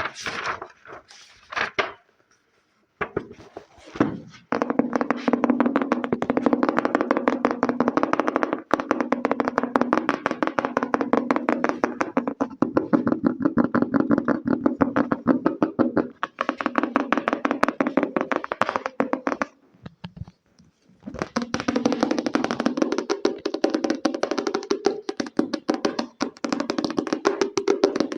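Very fast ASMR finger tapping on a hard object, long runs of many taps a second that break off briefly about a fifth of the way in and again about two-thirds of the way in.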